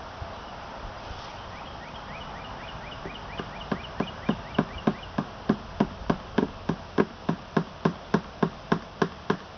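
Hammer tapping a small nail, about three light blows a second in a steady run that starts a few seconds in and gets louder toward the end.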